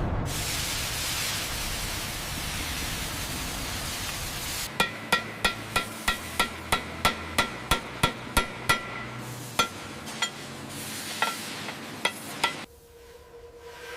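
A steady hiss, then hammer blows on steel, about three ringing strikes a second for a dozen or so blows, followed by a few slower strikes before the sound stops abruptly near the end.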